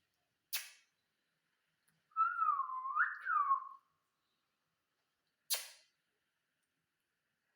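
Parrot giving one wavering whistle, about a second and a half long, that dips and rises in pitch. Two short sharp noises come about five seconds apart, one before the whistle and one after it.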